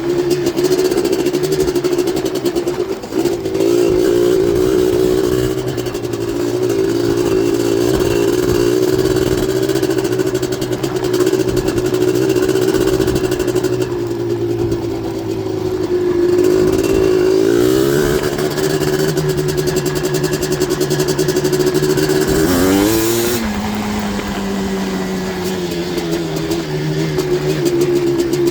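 Yamaha Blaster ATV's big-bore 240cc two-stroke single, breathing through an FMF exhaust, running hard at high revs for most of the ride. About two-thirds of the way through the pitch wavers and then climbs sharply; after that it settles lower and falls off slowly.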